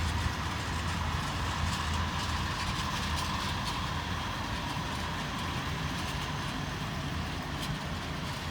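A train running steadily on the line: a low, even hum with a faint steady tone higher up and light clicks from the rails.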